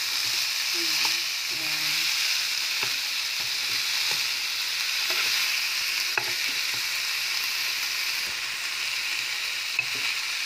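Red kidney beans with onion, tomato, garlic and chili sizzling steadily in oil in a nonstick pan on medium heat. A wooden spatula stirs them, knocking lightly against the pan a few times.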